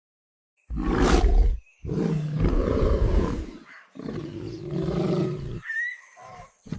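A series of loud, harsh, roar-like animal calls: three long ones about a second to two seconds each, separated by short gaps, then a quieter shorter one and another starting near the end.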